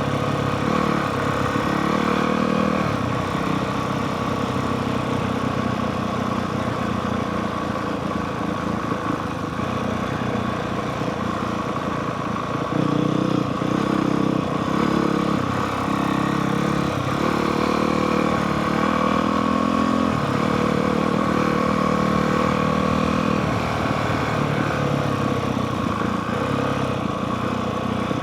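Honda CRF450R dirt bike's single-cylinder four-stroke engine running, its note rising and falling with the throttle, a little louder from about halfway through.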